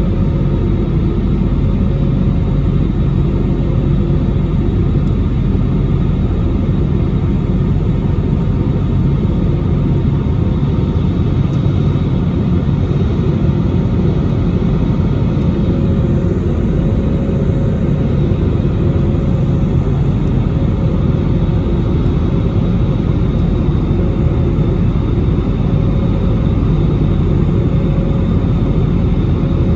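Steady cabin noise of an Airbus A320neo airliner in flight just after takeoff, the engines and airflow making a loud, even, low rumble with faint steady hums on top.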